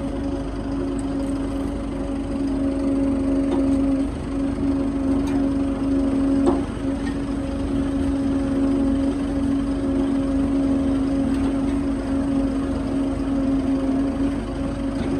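A motor running steadily with an even hum, with a few faint clicks over it.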